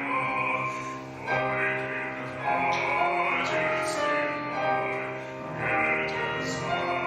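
A song: singing in long held notes over instrumental accompaniment with a steady low drone.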